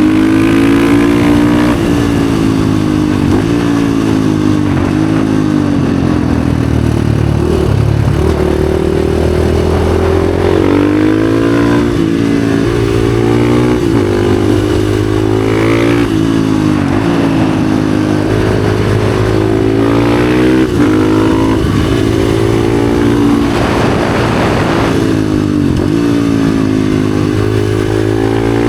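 Husqvarna FE 450's single-cylinder four-stroke engine through an FMF exhaust, under way and revving up and dropping back over and over, with a steadier, lower stretch about a third of the way in.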